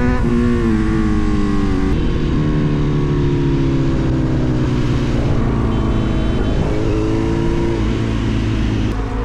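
Sport motorcycle engine running under way, its pitch sliding downward and dropping in steps, with one short rise about seven seconds in before it falls away again.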